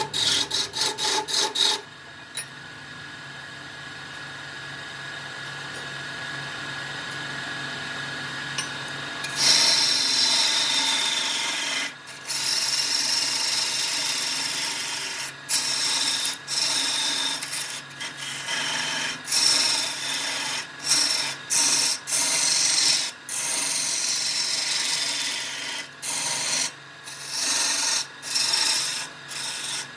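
A tool scraping against wood spinning on a wood lathe. The scraping is choppy for the first couple of seconds, drops to a quieter steady run until about nine seconds in, then comes back loud in stop-and-start passes with short breaks.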